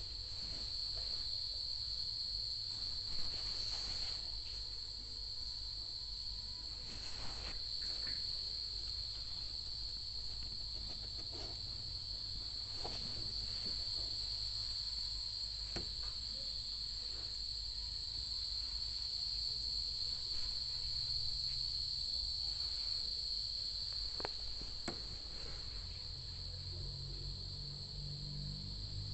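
Crickets trilling, one continuous high, even trill that does not let up, with a few faint clicks.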